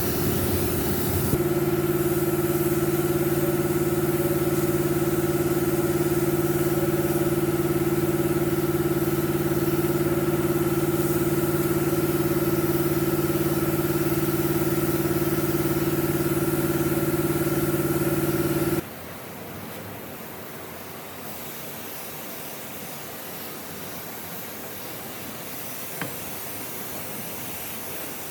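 A workshop machine's motor running steadily at one pitch, then cutting off abruptly about two-thirds of the way through, leaving a quieter steady hiss.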